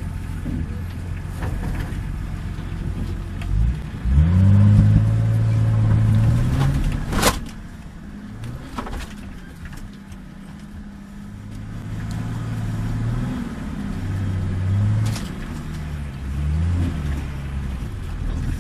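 Nissan Patrol off-roader's engine revving hard in bursts: it climbs sharply about four seconds in and holds high, eases off, then revs up and down several times near the end. A single sharp knock cuts through about seven seconds in.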